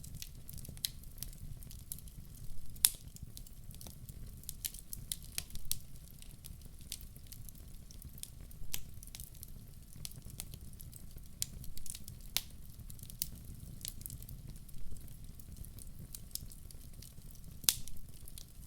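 Wood fire in a fireplace crackling, with irregular sharp pops over a steady low rumble; the loudest pops come about three seconds in and near the end.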